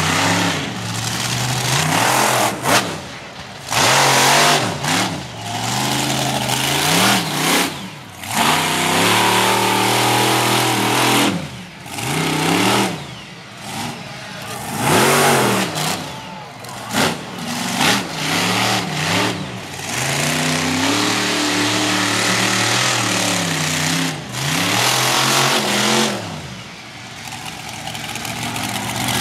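Monster truck engine revving hard and backing off over and over, its pitch rising and falling every second or two, with loud noisy blasts between.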